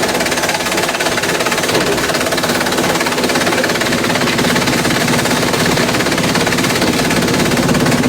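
Industrial shredder chewing bamboo: a rapid, continuous crackling rattle of the stalks being broken, over a steady machine hum.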